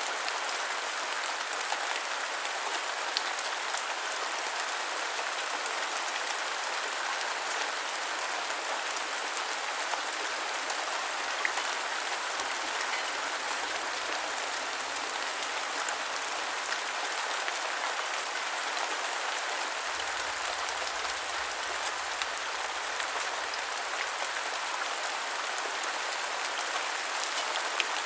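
Steady rain falling, an even hiss of many drops with small scattered ticks of single drops.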